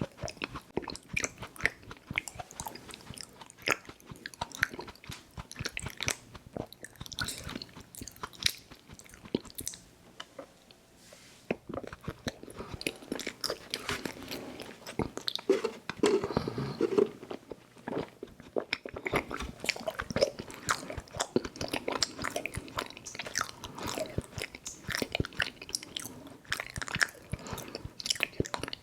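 Close-miked, wet chewing and mouth smacking of chewy fruit candy (Airheads Bites and Tootsie fruit chews), with many quick sticky clicks. It pauses briefly about ten seconds in, then louder smacks follow.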